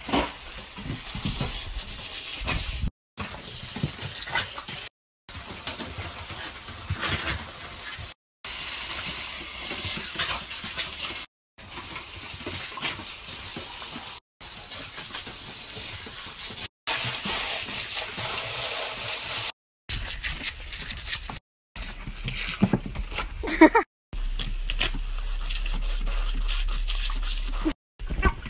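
Water spraying from a garden hose in a steady hiss, broken into short stretches by abrupt cuts every few seconds.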